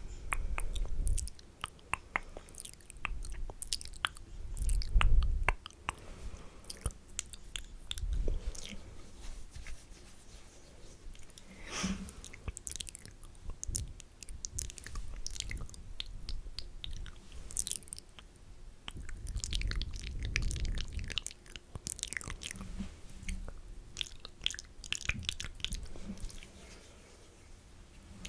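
Wet, spitty mouth sounds right at the microphone: irregular sticky clicks and smacks, with a few low thuds of the mic being touched.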